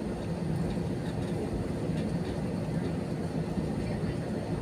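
Steady low rumble inside an Airbus A320-200's cabin on the ground before takeoff, from the engines and the aircraft rolling, with a faint steady hum running through it.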